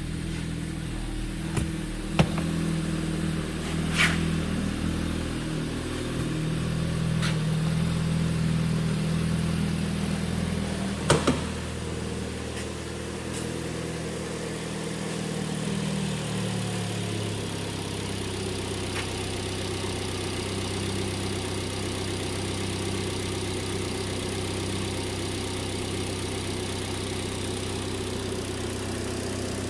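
A 2012 Chevy Cruze's 1.8-litre four-cylinder engine idling. Its idle speed drops about halfway through and then holds steady. A few sharp clicks sound in the first half.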